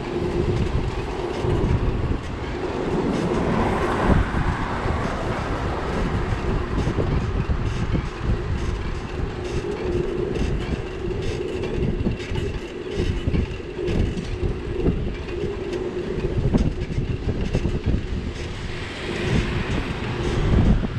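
Riding noise from a bicycle with a camera mounted on it: a heavy rumble of wind and rolling, with many small rattles and knocks as it goes over the paving, and a steady hum underneath.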